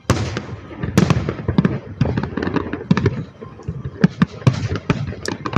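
Fireworks going off: a sudden loud burst, then a rapid, irregular string of sharp bangs and crackles, several a second.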